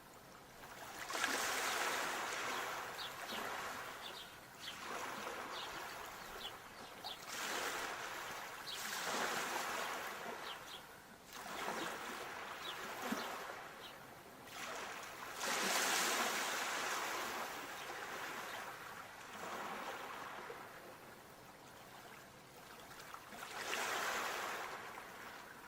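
Sea waves washing in, the surf swelling to a hiss and falling back every few seconds.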